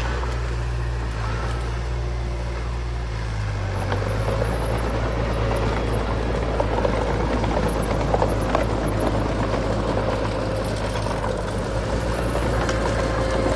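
Diesel engine of heavy earthmoving machinery running steadily, its note shifting about four seconds in, with a few short knocks around the middle.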